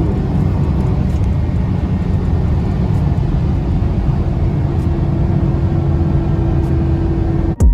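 Car engine and road noise while driving, steady and low, with a faint steady whine joining about five seconds in. It cuts off abruptly just before the end.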